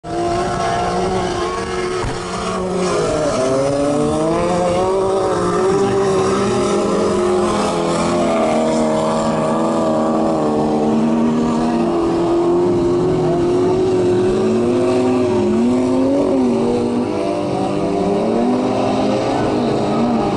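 Several autocross race cars' engines running hard together, their overlapping notes rising and falling in pitch as they rev and shift.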